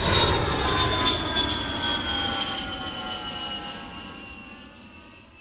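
Jet aircraft flying past. The engine noise starts abruptly, and its whine falls slowly in pitch as it fades away over about five seconds.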